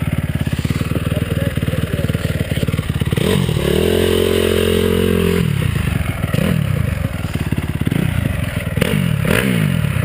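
Honda CRF250R dirt bike's single-cylinder four-stroke engine running at low revs, then revved up about three seconds in, held high for about a second and a half and let fall back, then blipped up and down again near the end, during a burnout attempt.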